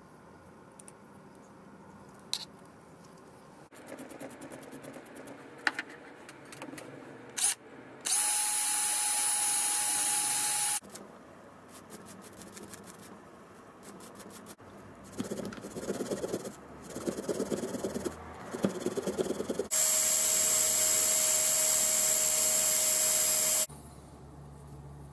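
A cordless power tool's motor running steadily at an even pitch in two runs, a short one and a longer one, the second a little lower in pitch. Between them come a few seconds of short, irregular rattling bursts, and light clicks and knocks come before the first run.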